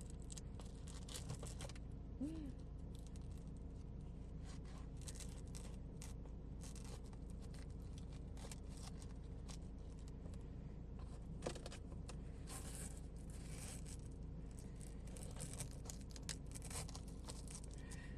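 Faint rustling, crinkling and light clicks of plastic being handled, over a low steady hum.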